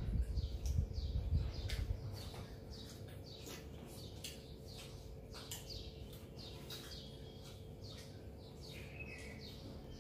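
Small birds chirping repeatedly: many short, quick, falling chirps, several a second, over a steady low hum, with a low rumble in the first two seconds.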